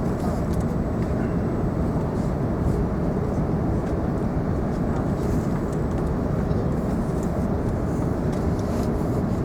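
Steady low cabin rumble inside an Airbus A380 taxiing after landing, with a few faint ticks above it.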